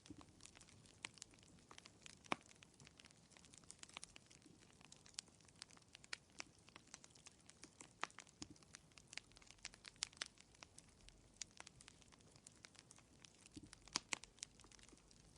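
Fireplace fire crackling: irregular sharp pops and snaps over a faint hiss, with louder pops about two seconds in and near the end.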